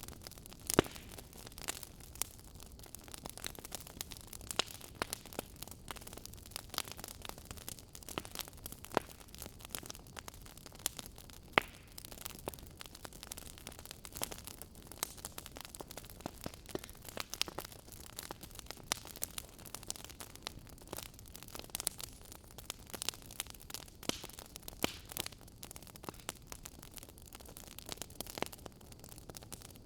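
Wood fire crackling: a steady soft hiss broken by many irregular sharp pops and snaps, a few of them loud.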